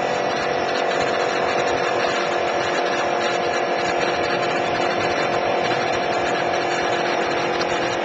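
Kawasaki Ninja 250R's parallel-twin engine running steadily at an even cruising speed. The pitch and level hold constant, with no change in revs.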